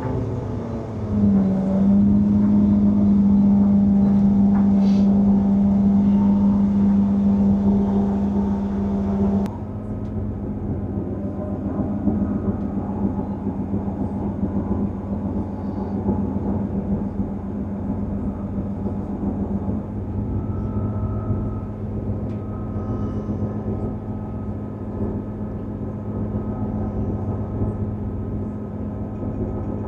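Class 158 diesel multiple unit heard from inside the carriage. The underfloor diesel engine's hum rises about a second in and holds steady under power. A third of the way through it changes abruptly to a quieter low drone with wheel and track rumble.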